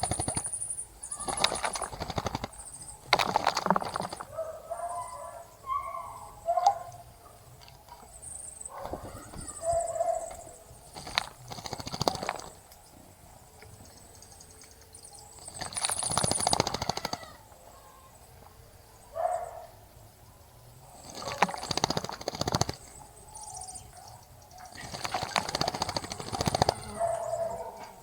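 Birds bathing in a bird bath: repeated bursts of splashing and wing-fluttering in the water, each about a second long, with short low calls in the gaps between them.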